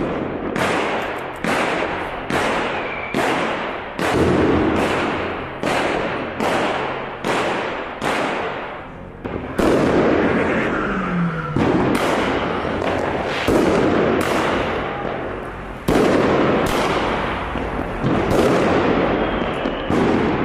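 New Year's Eve fireworks and firecrackers going off in a street, a rapid run of sharp bangs, each with an echoing tail. They come about two a second for the first nine seconds, then at wider, irregular gaps.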